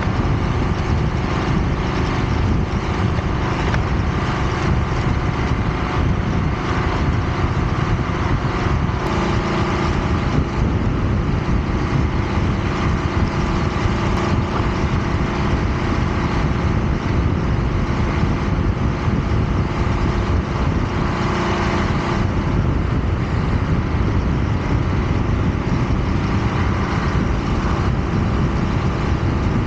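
Yamaha Bolt XVS950's V-twin engine running steadily under way, with continuous wind and road noise.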